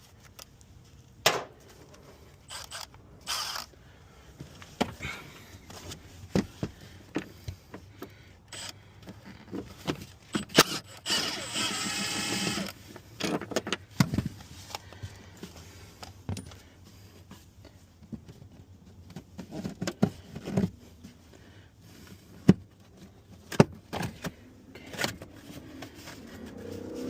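Hand tools and metal truck parts clicking and knocking while bolts are worked out, irregular single clicks with a denser rattling run lasting about a second and a half near the middle.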